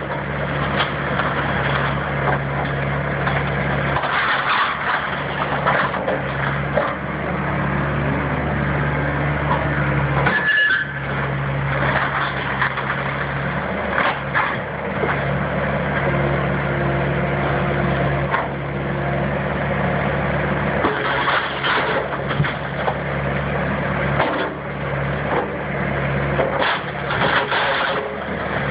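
Engine of a demolition machine running steadily under load, with repeated cracking and crunching of wood as the house structure is torn apart and crushed.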